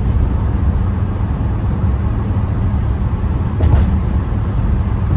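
Steady low rumble of a motor vehicle on the move, with a single short click about three and a half seconds in.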